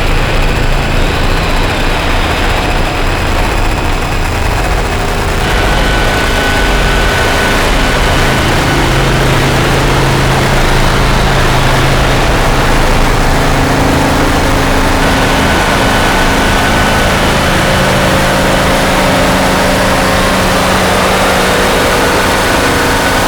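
Harsh noise drone from DIY noise synthesizers run through distortion pedals: a dense, steady wall of distorted noise over a low rumble, with a few held tones. About five seconds in the hiss grows brighter and thicker.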